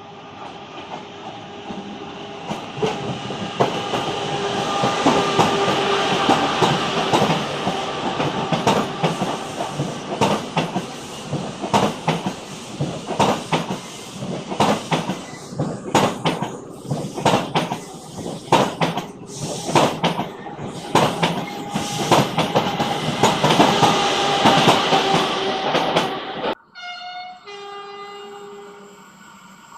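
A Renfe train passing close by. The sound builds over the first few seconds to a long loud passage of wheels clicking rapidly over rail joints, then cuts off abruptly near the end.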